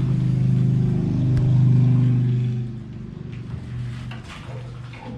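A motor vehicle's engine drone, steady and pitched, loudest in the first couple of seconds and then dropping away after about two and a half seconds.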